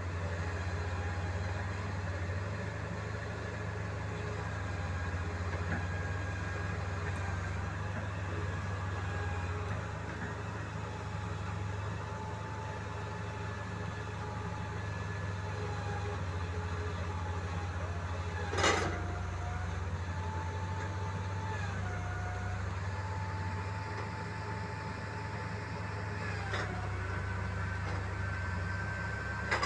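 Engine of a heavy machine running steadily with a low hum and a whining tone that steps up and down in pitch now and then. One sharp knock comes a little past the middle.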